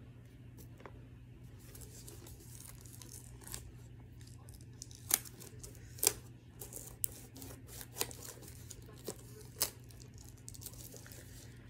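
Plastic wrapping being torn and crinkled off a movie disc case, with irregular sharp crackles over a low steady hum.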